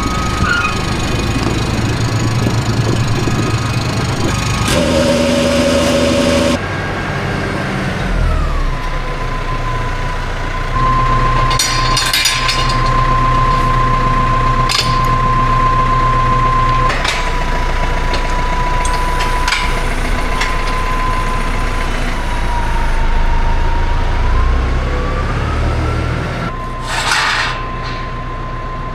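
A machine engine running steadily, with a high whine that holds, dips and rises again in pitch. There are brief hissing bursts partway through and near the end.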